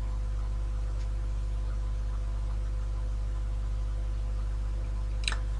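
A steady low hum at a constant level, with one short click about five seconds in.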